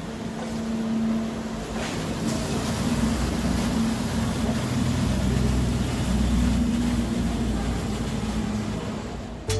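Car engine running with a low rumble that swells in the middle and fades near the end.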